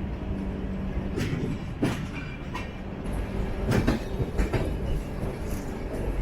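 Passenger train running on the rails: a steady rumble with a few sharp, irregular clacks as the wheels of the LHB coaches cross rail joints.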